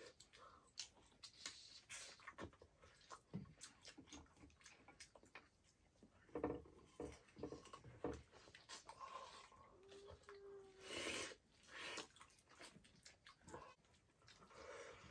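Faint close-up eating sounds: scattered wet smacks, clicks and chewing as someone gnaws and chews braised pork leg.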